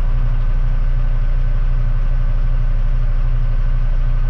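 Truck engine idling with a steady, unchanging low drone.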